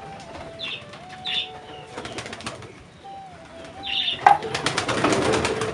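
Domestic pigeons cooing in a loft, with a few short high chirps. Near the end a loud flurry of wing flapping breaks out.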